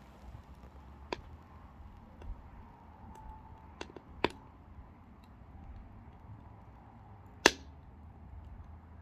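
Pine firewood crackling as it burns in a small wood stove: scattered sharp pops, two close together about four seconds in and the loudest about seven and a half seconds in.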